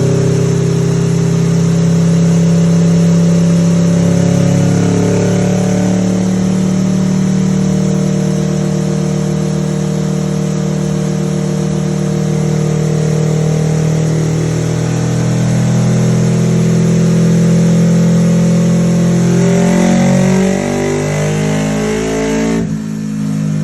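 Kawasaki Ninja 650 parallel-twin engine running hard through a full titanium Akrapovic exhaust, holding steady revs for a long stretch, then revving higher over the last few seconds before the throttle shuts off abruptly.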